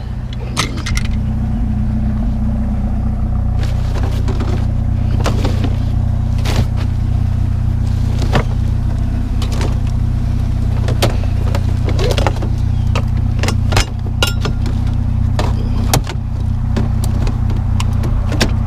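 Vehicle engine idling with a steady low hum, under irregular clicks and knocks of scrap fan parts being handled and dropped.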